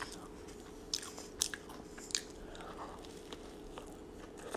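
Close-miked biting into and chewing a Big Mac, with a few sharp, crisp crunches about one, one and a half and two seconds in.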